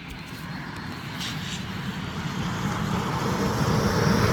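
A vehicle approaching fast, its engine and tyre noise growing steadily louder as it nears.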